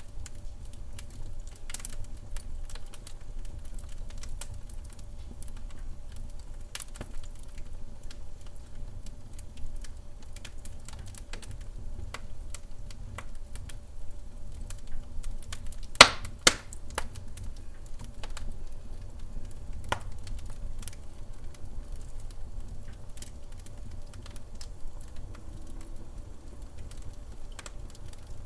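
Wood fire burning in a fireplace: irregular crackling over a steady low rumble of the flames, with two loud pops in quick succession about sixteen seconds in.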